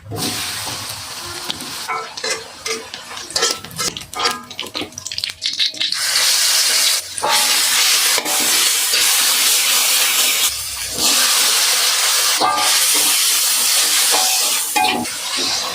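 Food stir-frying in a hot pan: oil sizzling, with a spatula clicking and scraping against the pan. About six seconds in the sizzle grows much louder and steadier.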